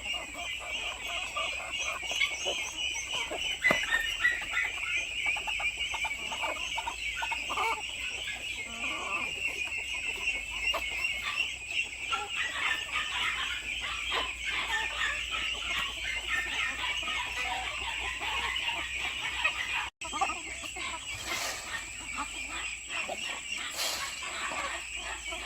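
A flock of free-range hens clucking, with scattered short calls over a steady high-pitched buzzing chorus.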